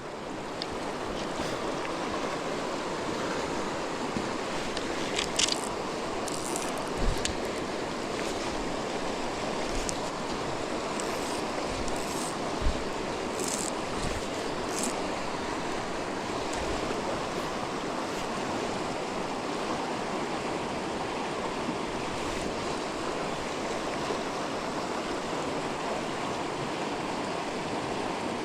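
Creek water rushing steadily over the streambed, with a few brief clicks and knocks along the way.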